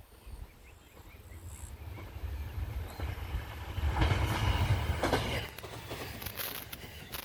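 Shinano Railway SR1 series electric train passing by. It grows louder, is loudest a few seconds in with a run of wheel clacks over rail joints, and then fades.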